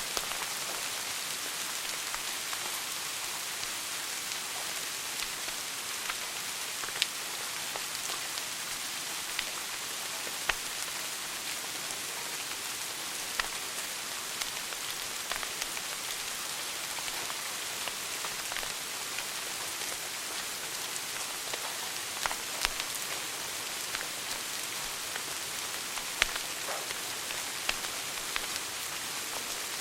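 Wood fire burning in a fireplace: a steady hiss with irregular sharp crackles and pops, and a few louder snaps every few seconds.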